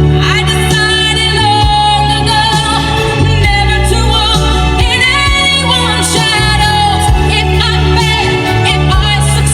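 A Cantonese pop song with a female lead voice and heavy, sustained bass, playing loud over a tuned custom car audio system and heard from the driver's seat inside the cabin.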